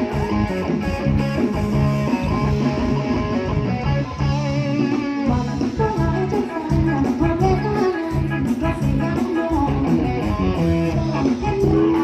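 Live band playing an instrumental passage: guitar lines over bass and a steady beat.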